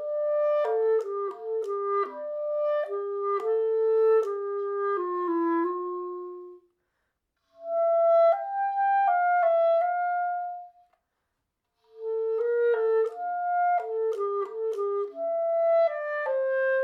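A solo woodwind instrument playing a melody of quick, separate notes in three phrases, with short pauses between them.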